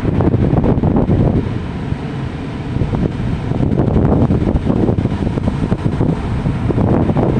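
Strong wind buffeting the microphone, a loud unsteady rumble, over the sound of ocean waves.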